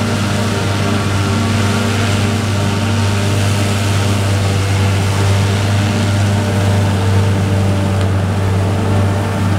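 Heavy farm machinery diesel engine running steadily, a constant low hum over a broad mechanical noise.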